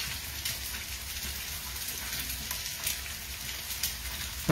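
Freshly cracked egg and diced potatoes frying in oil in one pan, with breaded nuggets frying in a second pan: a steady sizzle with faint crackles.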